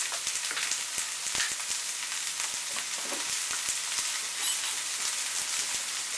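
Star fruit pieces frying in a little hot oil with panch phoron in a frying pan: a steady sizzle with many small crackles.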